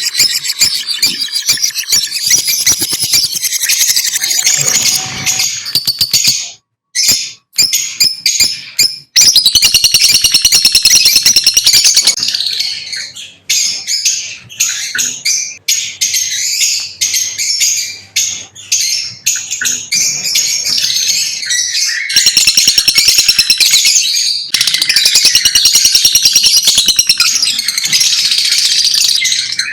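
Lovebirds chirping in a dense, continuous high-pitched chatter, broken by a few short pauses.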